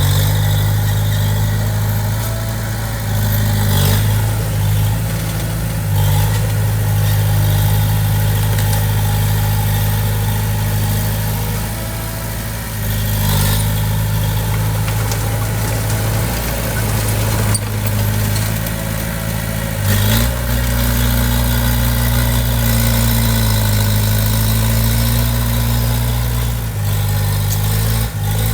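Diesel engine of heavy construction equipment running steadily, with a few brief knocks; its note changes about twenty seconds in.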